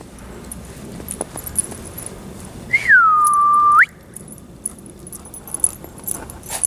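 A person whistles once, about three seconds in: a clear note that drops quickly and holds steady for about a second before cutting off. Faint jingling of a dog's collar tags runs through the rest.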